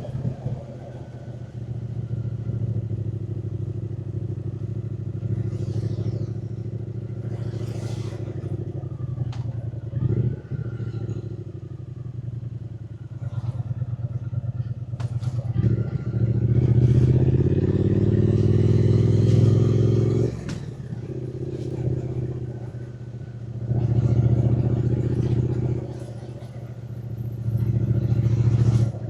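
Triumph Speed Twin 900's 900 cc parallel-twin engine running under way, the throttle opening and closing. A little past halfway it climbs in pitch under acceleration for about four seconds, then drops off suddenly. Two shorter swells of throttle follow near the end.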